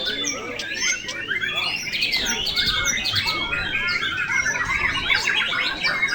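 Several caged white-rumped shamas (murai batu) singing at once, a dense, overlapping tangle of quick chirps, whistles and trills.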